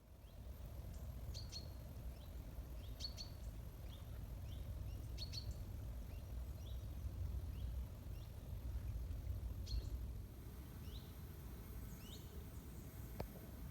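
Scattered short bird chirps and quick rising calls over a low, steady outdoor rumble.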